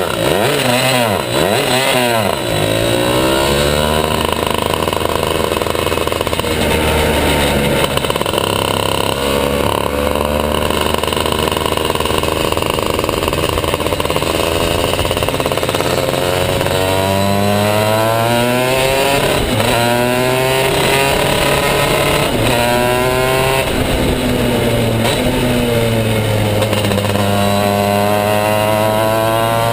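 Two-stroke shifter kart engine at racing speed. The revs climb hard again and again, drop sharply as it shifts gear, and dip and rise again through the corners.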